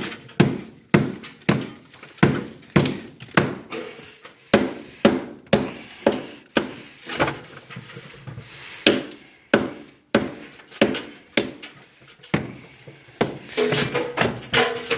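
Hammer striking fireplace chimney masonry in a steady series of sharp blows, roughly two a second, breaking it open.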